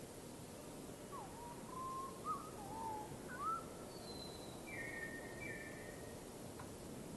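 Wild birds calling: a run of short whistled notes that slide up and down, then two higher, falling notes a little past the middle, over a steady background hiss.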